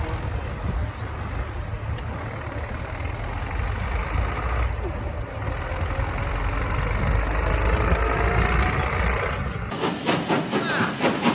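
Steam engine hissing steadily over a low rumble; the rumble stops near the end.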